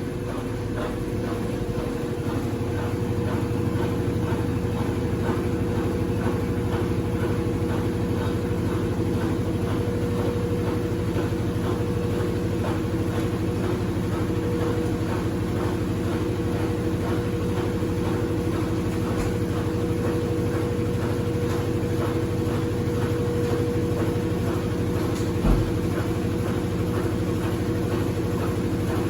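Consul CWC08 8 kg washing machine running: a steady motor hum with a high whine, building over the first couple of seconds and then holding level, with a single knock about 25 seconds in.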